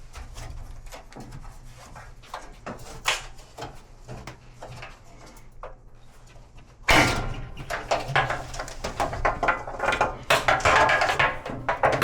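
Hand-tool and metal-part handling on a top-load washer during repair: scattered light clicks and knocks, then from about seven seconds in a louder run of rattling and clattering.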